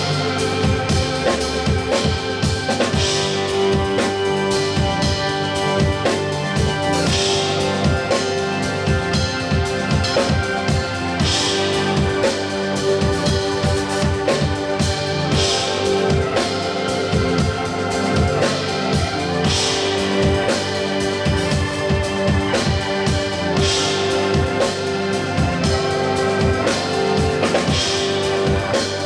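Live band music: an organ-toned keyboard holding sustained chords over a drum kit, with a bright swell in the highs about every four seconds.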